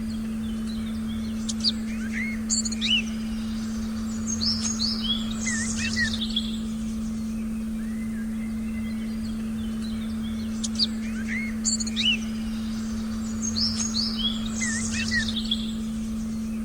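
Forest birds chirping and singing in two bursts of short calls, the second a repeat of the first about nine seconds later, as in a looped recording. Under them runs one steady low electronic tone that never changes.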